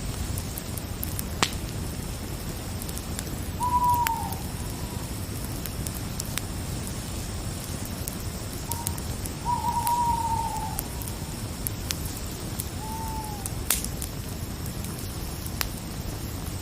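Crackling fire: a steady hiss of burning with scattered sharp pops, over a faint steady insect trill. A bird calls three times with notes that fall in pitch, about four, ten and thirteen seconds in. The middle call is the longest.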